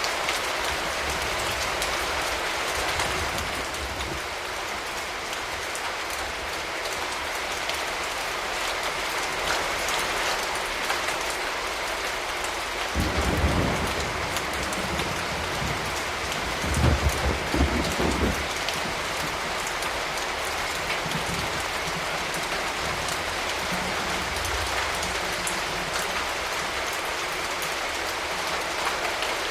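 Steady rain falling. About halfway through, and again a few seconds later, there is a brief low rumble, the second the louder.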